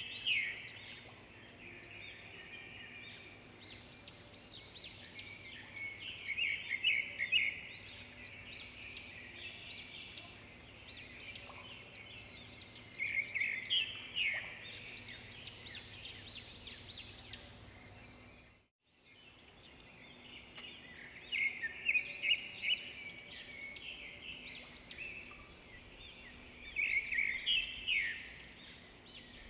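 Several small birds chirping and singing over each other in quick, high trills and twitters, louder clusters coming every few seconds. The sound drops out completely for about half a second roughly two-thirds of the way through.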